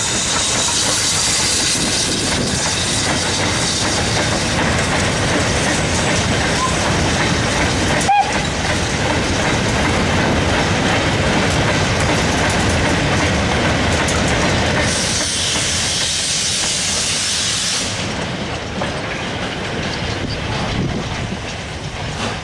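BR Standard class 9F steam locomotive No. 92214 passing with a hiss of steam, followed by a long rake of steel mineral wagons rumbling and clicking over the rail joints. A hiss returns for a few seconds past the middle, and the rumble fades near the end as the train goes by.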